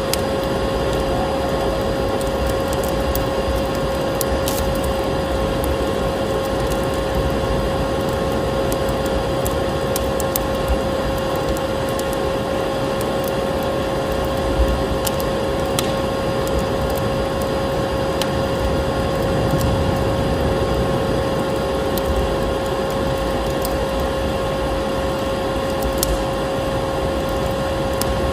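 Electric vacuum cleaner running steadily with a constant hum, layered with the irregular crackle and pops of a wood fire in a fireplace.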